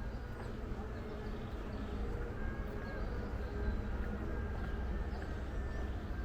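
Outdoor background noise: a steady low rumble with faint short whistle-like tones scattered through it.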